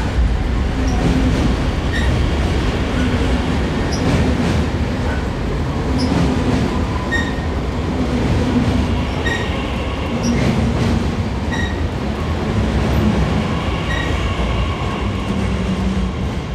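Electric multiple-unit passenger train passing close by on a steel truss bridge: a steady rumble of wheels on rail, with light regular clicks about every two seconds and a faint whine in the second half.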